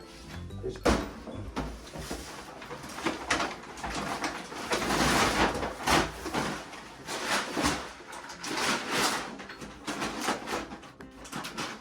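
Cat litter being scooped and raked in a litter box: repeated gritty scraping and rustling, with a longer burst about five seconds in.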